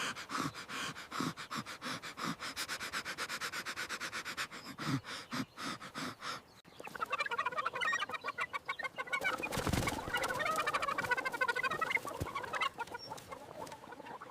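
Chickens clucking, starting about halfway through, after a quick, even run of short taps.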